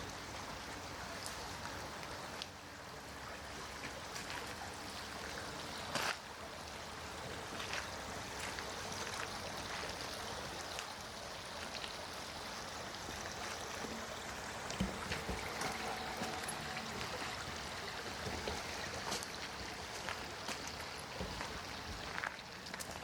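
A small stream trickling and running steadily, with a few scattered clicks and knocks, the sharpest about six seconds in.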